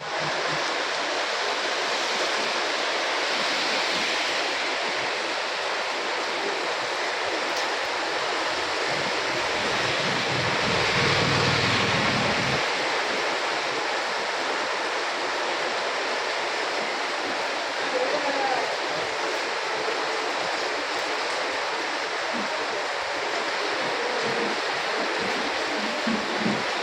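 Heavy rain pouring down in a steady, dense hiss. About nine seconds in, a low rumble joins it for three or four seconds, then stops abruptly.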